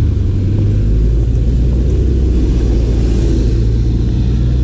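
Steady low rumble of a nearby motor vehicle's engine running, with a brief swell of hiss about three seconds in.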